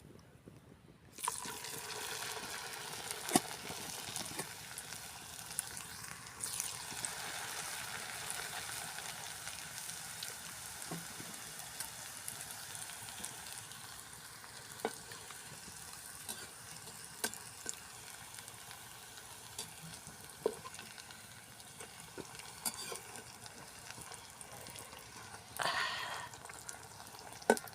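Snacks deep-frying in hot oil in a pan. A steady sizzle starts suddenly about a second in, with scattered sharp clicks and a louder surge of sizzling near the end.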